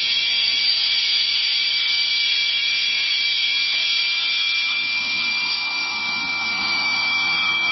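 Jet plane's engines during takeoff: a steady high turbine whine with a piercing tone, and a faint lower rumble building in the second half.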